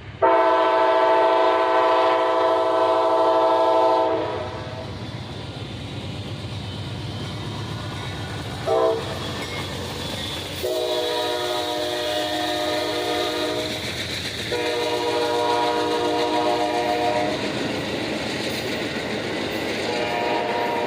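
Locomotive horn sounding a series of chords: one long, loud blast, a short toot about nine seconds in, then two more long blasts and another starting near the end, over the steady rumble of the rolling train.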